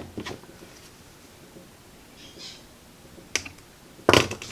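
A few sharp clicks and taps of small hand tools handled at the workbench, with a louder cluster of clicks near the end and quiet between them.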